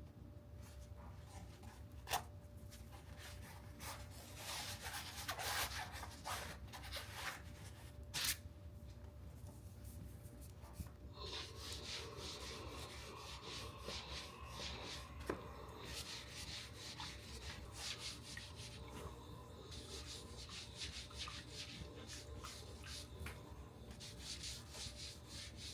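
Close handling sounds: uneven rubbing and scraping, with a few light knocks about two, eight and fifteen seconds in.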